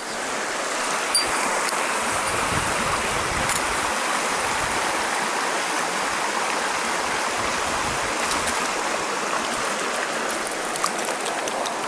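Mountain stream water rushing over rocks, a steady close-up rush with no break.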